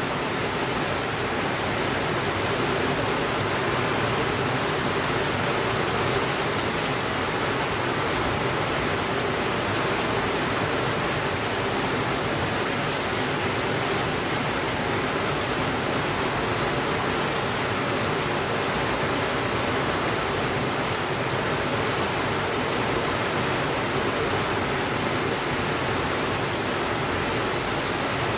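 Steady rainfall: a dense, even hiss that neither swells nor fades.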